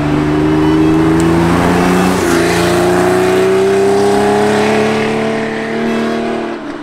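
Air-cooled Porsche 911 flat-six accelerating hard under load. Its pitch climbs, dips with a gear change about two seconds in, then climbs again through the next gear before fading near the end.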